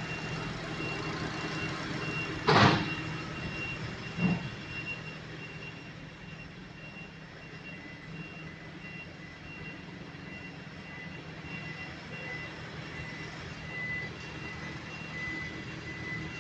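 A car engine running steadily, with a faint high-pitched tone over it. Two sharp knocks come about two and a half and four seconds in; the first is the loudest.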